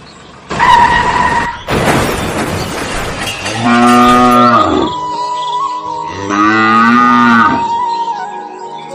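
Cow mooing twice, two long calls that drop in pitch at the end, with a steady high tone running under the second call.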